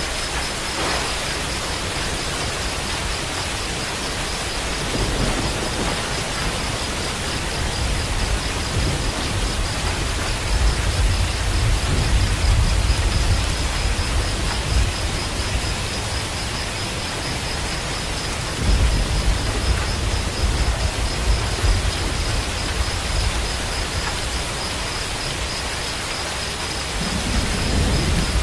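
Steady heavy rain with low rolling rumbles of thunder that swell and fade several times.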